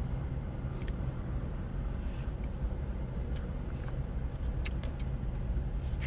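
Chewing, with scattered small clicks of a fork in a plastic pasta bowl, over a steady low hum.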